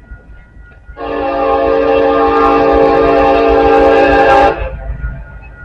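Union Pacific locomotive's multi-chime air horn sounding one long blast of about three and a half seconds, starting about a second in and cutting off near the end, over the low rumble of the train.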